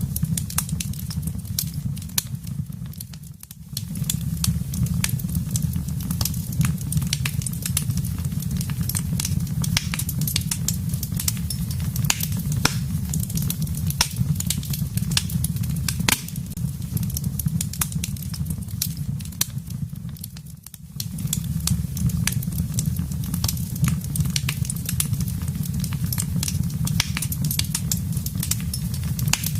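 Wood fire burning in a fireplace: dense, irregular crackles and sharp pops over a steady low rumble of the flames. Twice the sound dips briefly, about 3 seconds in and about 21 seconds in.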